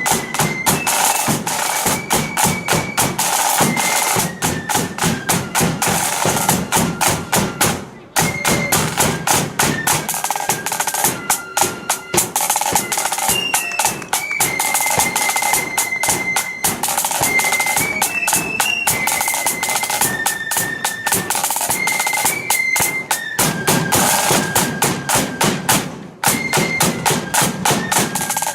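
Blood-and-thunder flute band playing a march: flutes carry a high melody over rapid snare drum rolls and a pounding bass drum, with brief breaks in the playing about eight seconds in and near the end.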